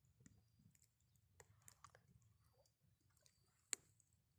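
Near silence with faint, scattered crackles and pops from a burning wood campfire, one sharper pop a little before the end.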